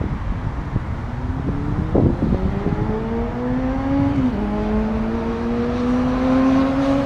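A car accelerating through the gears over a constant low rumble: the engine note climbs steadily, falls at a gear change about four seconds in, then climbs again.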